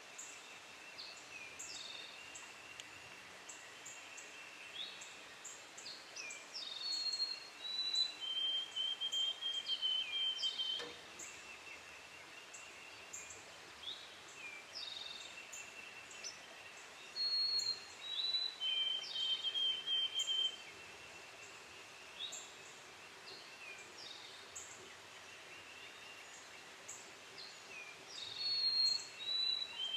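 Songbird singing outdoors: three times, about ten seconds apart, a phrase of short falling notes ending in a long trill, with other birds chirping in between.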